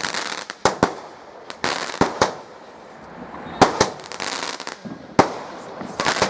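Fireworks going off: about eight sharp bangs at uneven intervals, with crackling hiss between them, thickest about four seconds in.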